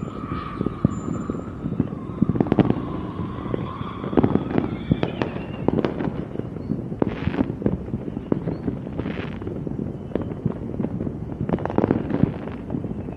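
Fireworks going off in rapid succession: many sharp bangs and crackles, with a few longer hissing bursts. A faint whistle-like tone sounds in the first few seconds.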